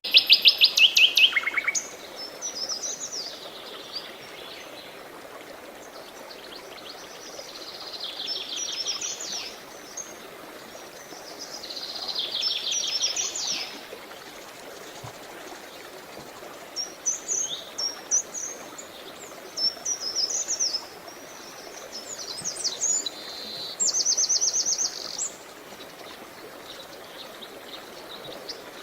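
Wild birds singing in separate bouts of fast, high trills and varied chirps a few seconds apart, over a steady hiss of flowing water.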